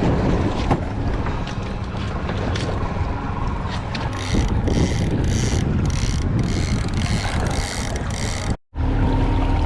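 Boat running on the open lake with heavy wind buffeting the microphone. From about four seconds in, a rapid run of short hissing bursts comes about two or three a second.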